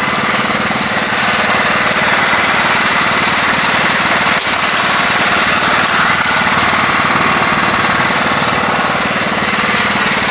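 Engine of a lifted, modified riding lawn mower running steadily under way, with one sharp click about four and a half seconds in.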